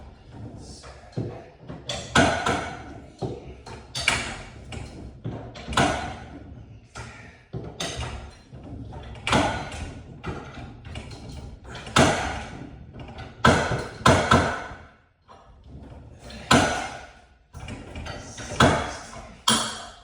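Repeated sharp metal knocks and clanks, one every second or two, each ringing out briefly: tools and hardware being handled during garage door spring work.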